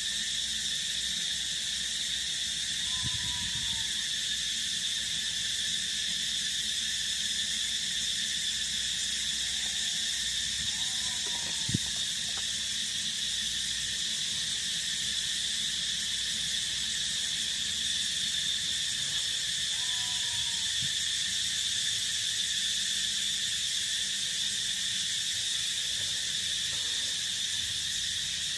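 Steady, unbroken chorus of crickets and other field insects, with a short faint two-note call from some other animal heard three times, about eight to nine seconds apart, and a single click near the middle.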